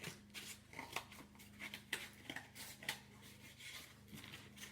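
Scissors snipping through an egg carton: a run of short, sharp cuts at an uneven pace.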